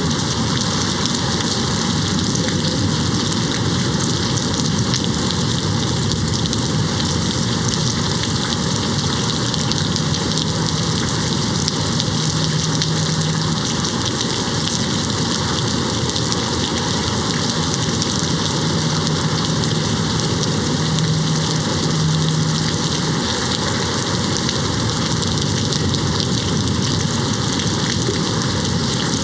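Steady rain falling and pattering on a window pane, an even hiss with no thunder. A faint low hum comes in twice in the middle.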